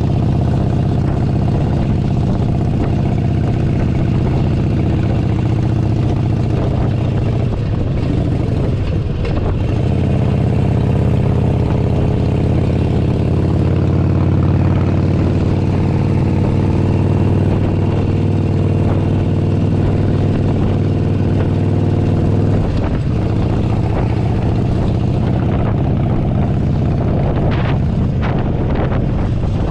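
Harley-Davidson Forty-Eight Sportster 1200's air-cooled V-twin engine running under way. Its note holds steady and rises a little through the middle, then changes abruptly about 23 seconds in, with a few short clicks near the end.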